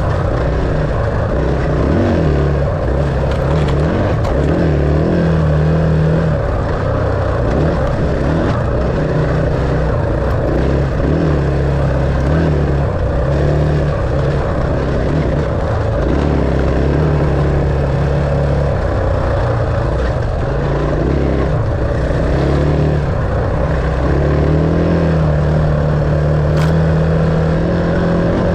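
Dirt bike engine running under way, its revs rising and falling again and again as the throttle is worked.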